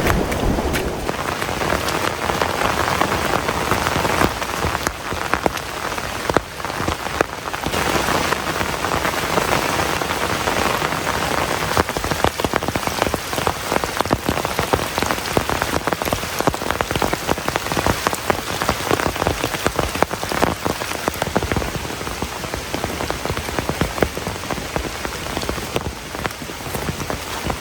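Heavy rain falling steadily, with many close drops striking a surface as a dense patter of sharp ticks over the rain's hiss.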